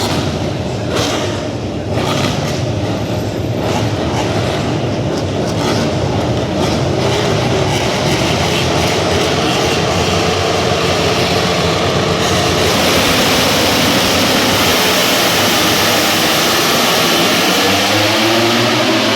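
MotoGP racing motorcycles passing at speed. The engine noise swells about two-thirds of the way through and stays loud, and the engine pitch falls near the end.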